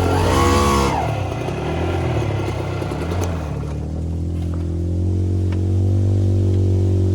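Dirt bike engine revving up and back down about a second in, then running on at a steadier, slowly changing pitch, with a few light clicks of clatter.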